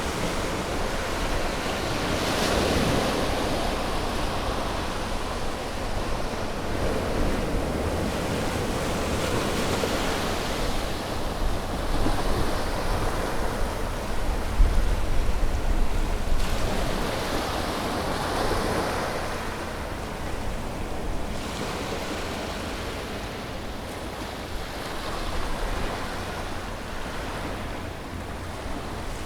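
Sea waves breaking on a shore, the surf swelling and fading every few seconds, with a low wind rumble on the microphone.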